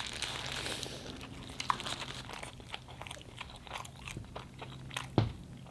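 Close-up eating sounds: a person biting into and chewing food, a run of small crisp clicks, with a sharper knock about five seconds in.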